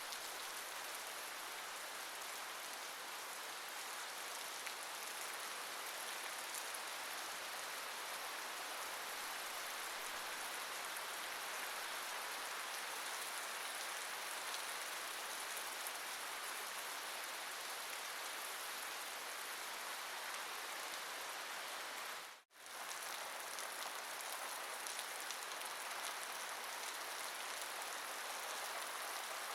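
Steady rain falling, an even hiss of drops with no thunder. The sound drops out for a fraction of a second about three-quarters of the way through, then resumes unchanged.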